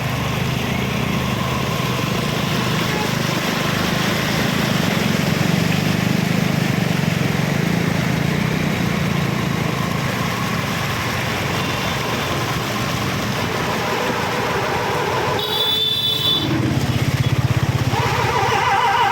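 Road traffic with vehicle engines running steadily. There is a brief high tone about sixteen seconds in, and a fast pulsing tone, like a horn, starts near the end.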